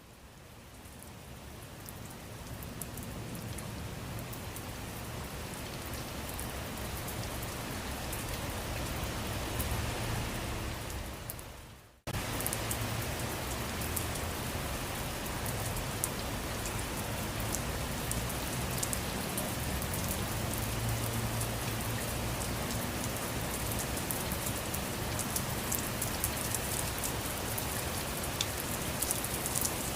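Steady rain falling, an even hiss with fine ticks of single drops. It fades in over the first few seconds. Near twelve seconds in it drops out abruptly and comes straight back at full level.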